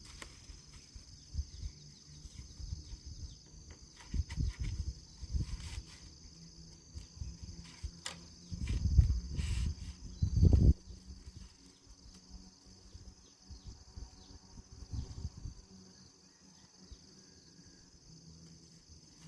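Insects buzzing steadily in the background, with irregular dull low thuds and rumbles that are loudest from about eight and a half to ten and a half seconds in, and a sharp click just before them.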